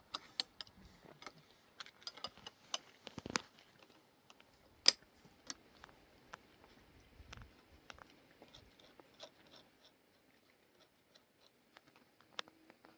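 Faint, scattered clicks and light taps at irregular intervals, with one sharper click about five seconds in.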